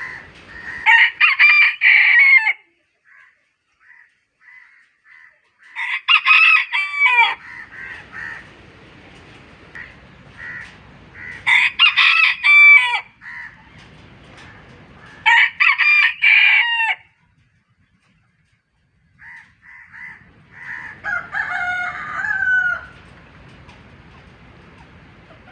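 Rooster crowing about five times, a few seconds apart, with fainter bird chirps in between.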